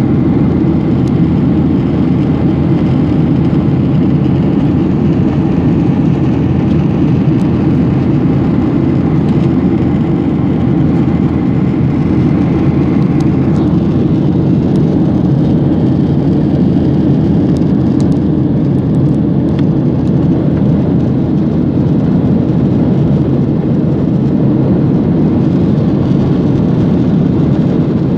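Steady drone of an airliner cabin in flight: engine and rushing air noise, even throughout.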